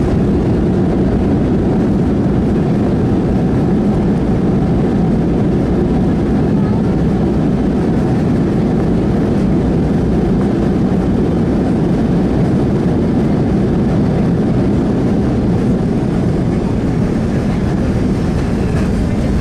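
Steady low rumble of a Boeing 737-700's CFM56 engines and rushing air, heard from inside the passenger cabin.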